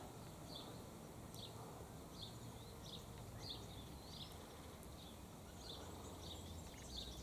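Faint, short, high bird chirps, about two a second, over a low steady background rumble.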